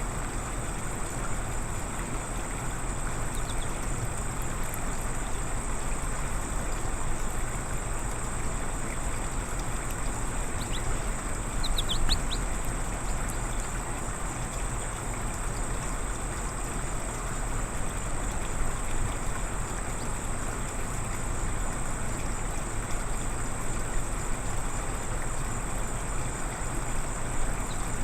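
Outdoor backyard ambience: a steady rushing background noise with a constant thin high tone, and a few quick bird chirps about eleven to twelve seconds in.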